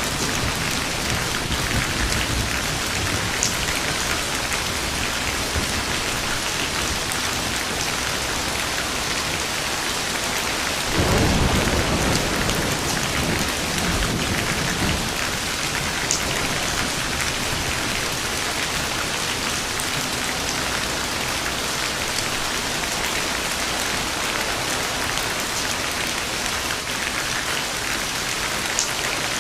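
Steady heavy rain, with the hiss of drops on a surface and scattered small patters. A roll of thunder rumbles in about eleven seconds in and dies away over the next few seconds.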